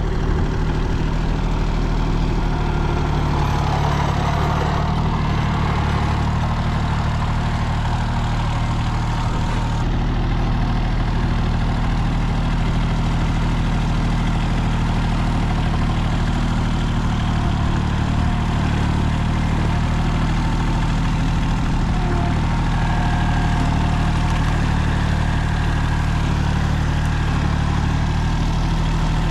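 Small tractor's engine idling steadily, a low, even drone.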